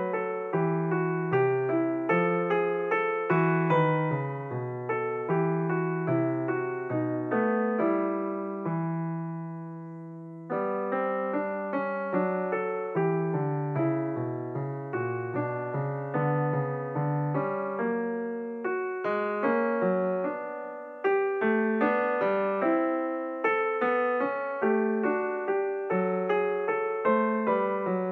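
Piano music: a flowing run of struck notes and chords, with one chord held and left to fade about nine seconds in before the playing picks up again.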